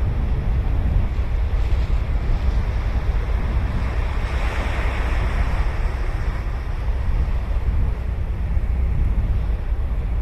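Ocean surf breaking and washing on a sandy beach, one wave's wash swelling about four seconds in and fading a couple of seconds later. Wind buffeting the microphone adds a steady low rumble.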